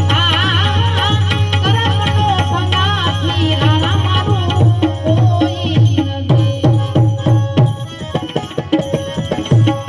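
Instrumental interlude of a Gujarati santvani bhajan: a wavering melodic line over a steady low drone, then tabla strokes in a quick rhythm through the second half, the bass drum's pitch bending down on many strokes.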